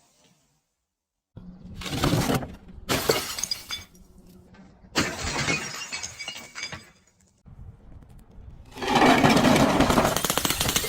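Glass bottles shattering and being crushed. After about a second of silence come several separate bursts of breaking and crunching glass, and the loudest is a continuous crunch of glass over the last two seconds.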